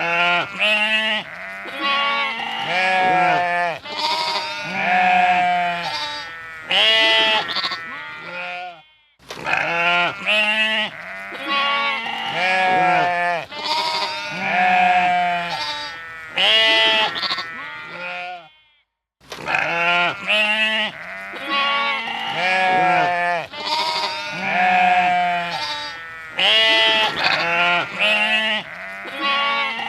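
A flock of sheep bleating, many overlapping calls. The same stretch of bleating repeats about every ten seconds, with a brief silence between the repeats.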